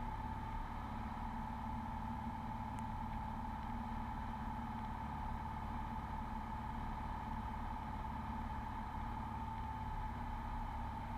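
Beechcraft Bonanza V35 cabin noise on the approach: a steady engine drone with a constant high whine above it.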